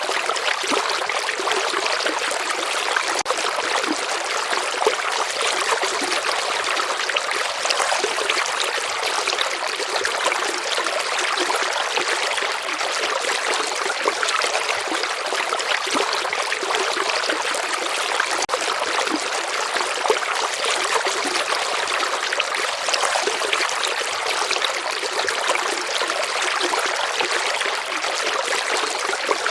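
River water flowing steadily, an even, unbroken water sound that is mostly hiss with little deep rumble.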